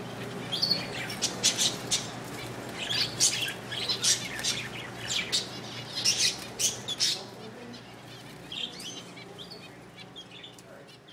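Parakeets chirping: many quick, sharp, high chirps that are busiest for the first seven seconds or so and then grow fainter, over a faint steady low hum.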